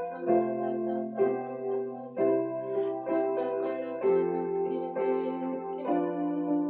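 Slow, calm piano-style keyboard music: held chords that change about every second, with a soft high swish landing on roughly every beat.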